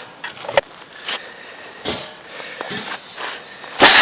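Hand rummaging in a container of bird seed: a sharp click about half a second in, then a few short rustling scrapes, the loudest near the end.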